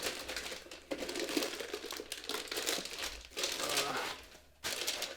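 Packaging wrapping being crinkled and pulled off a model aeroplane part by hand, an irregular rustling with small crackles and a short pause near the end.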